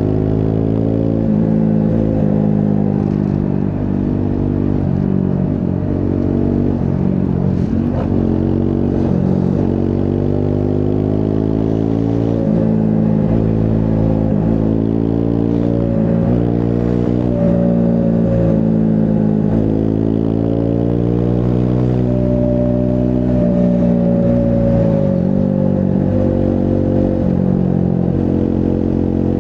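Triumph Scrambler 400 X's single-cylinder engine running under way, its revs climbing and dropping again and again with the throttle and gear changes.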